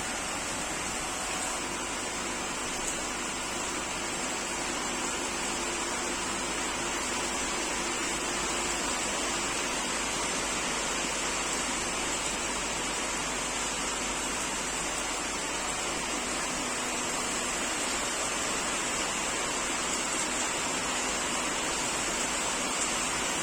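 Steady machine noise from workshop machinery running: an even hiss with a faint high whine held throughout.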